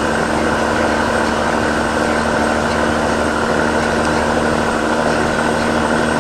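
Dump truck engine running steadily, a constant drone with a fixed hum, heard from inside the cab.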